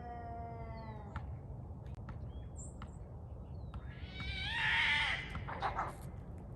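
Cats yowling in a fight standoff: a drawn-out, slightly falling yowl that ends about a second in, then a louder wavering yowl with a harsh rasp from about four to five and a half seconds in. A few light clicks fall in between.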